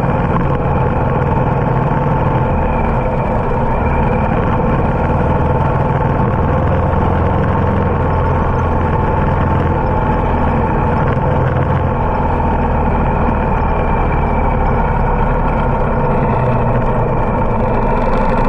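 Harley-Davidson motorcycle's V-twin engine running steadily under way, a continuous low rumble that holds at an even pitch.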